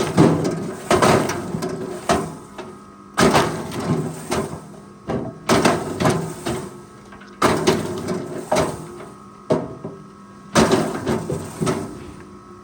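Forestry machine at work: heavy clunks and knocks in bursts every two to three seconds over a faint steady engine hum.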